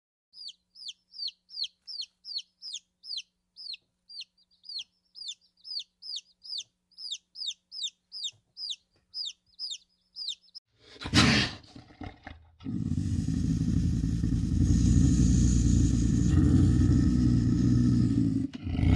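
A bird's short, high peeping calls, each falling in pitch, repeated about two or three times a second for some ten seconds. Then a loud burst, followed by a loud steady noise lasting about six seconds.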